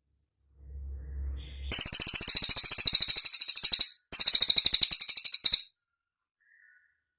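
Cililin bird singing a rapid, high-pitched trill of evenly repeated notes in two long bursts with a brief break between them. A faint low rumble comes just before the song.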